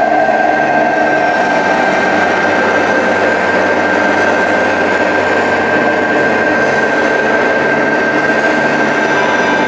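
Steady engine-like mechanical noise with a constant high whine over it, unchanging throughout.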